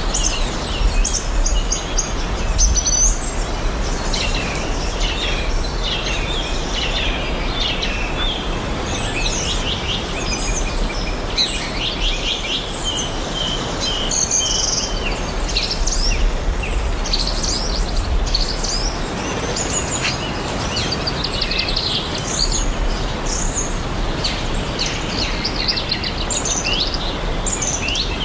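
Several birds chirping and trilling over a steady background hiss.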